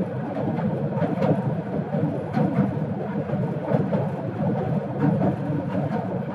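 Passenger train running across a steel truss rail bridge, heard from a carriage window: a steady rumble and rattle of the wheels and carriages on the bridge, with a clack about every second or so as the wheels pass rail joints.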